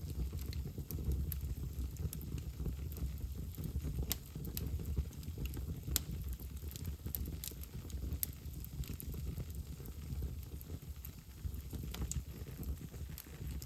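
Wood fire burning in a fireplace, crackling with irregular small pops and one sharper snap about six seconds in, over a low steady rumble.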